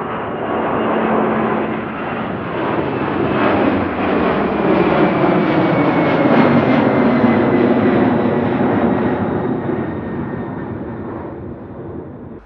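Airbus A300 freighter's twin jet engines passing close by, swelling to a peak about halfway through and then fading, with the pitch falling as it goes past. The sound cuts off abruptly at the end.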